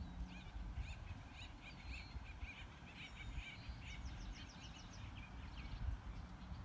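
Songbirds chirping with many short, quick notes, and a fast trill about four seconds in, over a low rumble.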